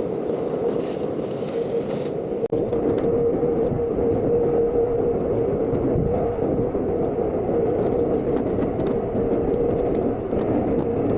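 An electric motor, such as a duct-cleaning vacuum or blower, running steadily with rushing air and a steady hum. It breaks off for an instant about two and a half seconds in, then carries on a little louder.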